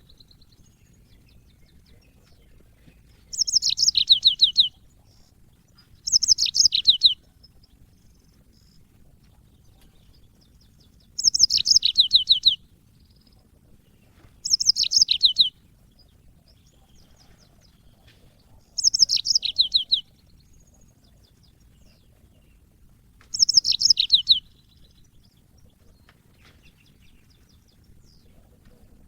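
Yellow-fronted canary (Mozambique canary) singing: six short phrases, each a fast run of notes falling in pitch, separated by pauses of a few seconds.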